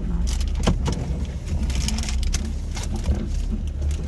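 Low, steady engine rumble from a Jeep crawling an off-road trail, with a scatter of sharp clicks and knocks as it works over the ground.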